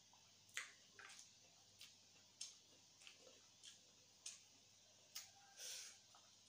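Faint wet mouth clicks and smacks of someone chewing food close to a lapel mic, about one or two a second, with a slightly longer soft smack near the end.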